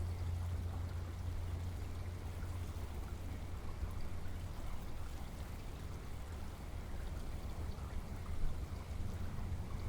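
Steady rain falling, with scattered ticks of individual drops over a constant low rumble.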